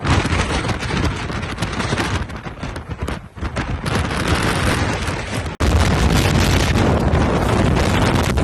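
Hurricane-force blizzard wind buffeting the microphone: loud, gusting wind noise. It cuts out for an instant a little past halfway and comes back louder.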